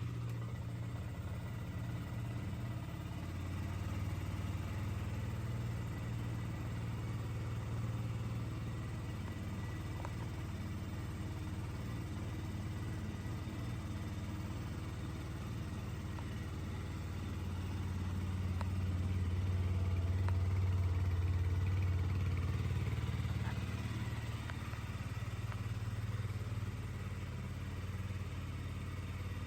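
KTM Duke 125's fuel-injected single-cylinder four-stroke engine idling steadily, growing a little louder for a few seconds past the middle.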